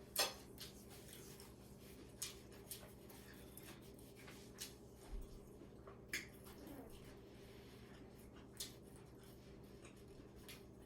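Faint, scattered clicks and clinks of utensils against dishes during a meal, about seven in all, over a low steady hum.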